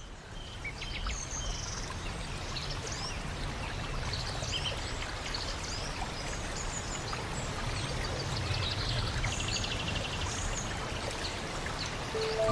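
Several birds chirping and whistling over a steady rushing noise, with one bird giving a short fast trill about nine seconds in.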